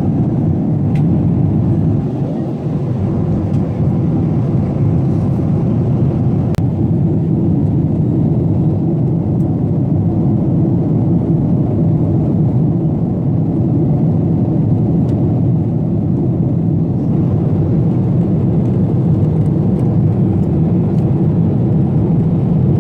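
Steady cabin noise of a Boeing 777-200 in flight or on its takeoff run, the engines and rushing air heard from inside the cabin as a constant low rumble.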